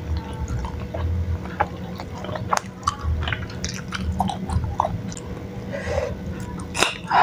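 Close-up mouth sounds of chewing chewy tapioca cirambay in chili oil: many small wet clicks and smacks. A louder bite into a slice of fresh cucumber comes near the end.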